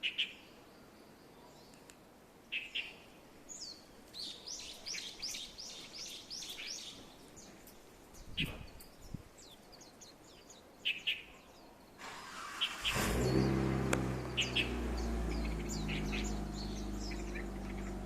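Wild birds chirping and calling, with short high notes and a quick run of repeated notes. About two-thirds of the way through, the steady low hum of a motor vehicle's engine comes in and continues beneath the birdsong.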